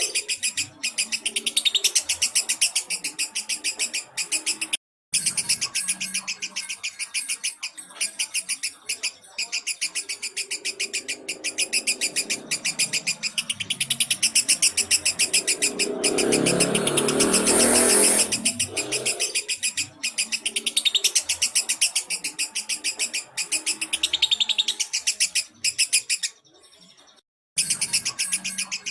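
Lovebird chattering in a long, fast, unbroken trill of high chirps, the continuous 'gacor' song used as masteran to provoke other lovebirds. The sound cuts out briefly twice, and a lower sound swells under the chirping past the middle.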